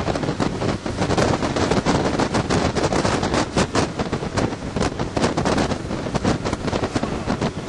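Rapid, irregular crackling and thumping on a moving motorboat, from wind buffeting the microphone and the hull slapping over choppy water.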